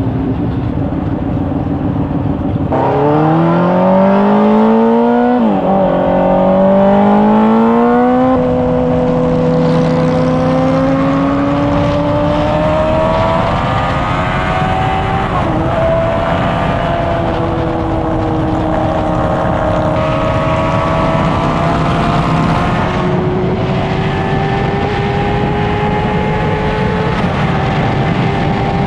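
Honda CBR600RR inline-four engine accelerating hard through the gears, revs climbing steeply and dropping at each upshift, three shifts in the first half. Then it runs at a near-steady high cruising speed with gentle rises in pitch.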